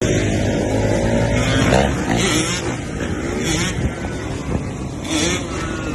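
Motorcycle engine running and being revved, its pitch rising and falling repeatedly.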